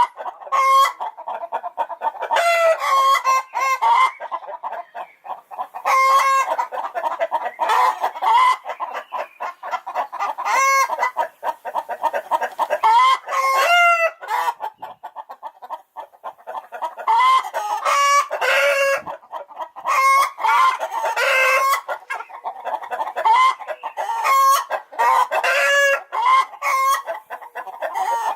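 Chickens clucking and cackling in a steady run of repeated calls, several of them longer and drawn out.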